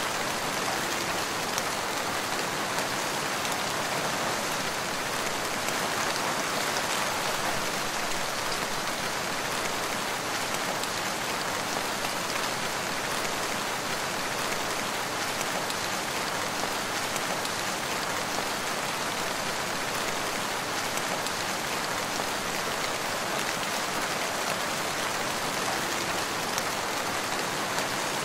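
Steady rain falling in a forest, an even patter of many drops without let-up.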